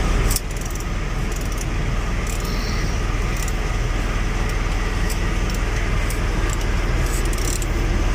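Steady rumble of passing road traffic, with scattered light metallic clicks and taps from hand tools being worked on the engine.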